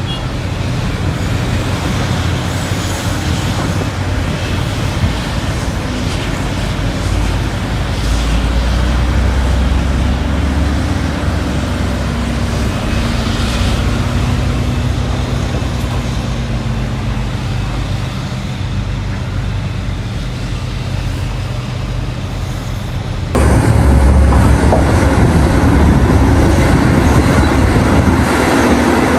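Heavy diesel earthmoving machinery at a mine running steadily, its engine note drifting slowly up and down. About three-quarters of the way through, the sound cuts abruptly to a louder, closer take of the machines.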